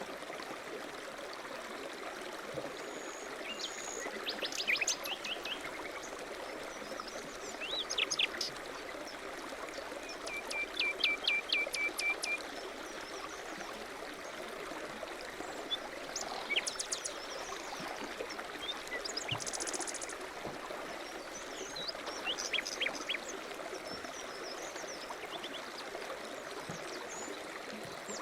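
Small songbirds singing and calling on and off, with short chirps and a fast trill of about ten quick notes near the middle, over a steady rushing background noise.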